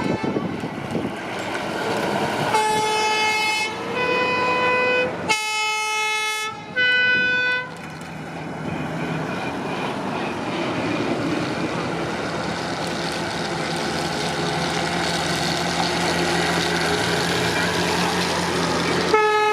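Fire truck horns sounding in four short blasts, one after another at different pitches, followed by the steady low hum of truck engines rolling past. Another horn blast comes near the end.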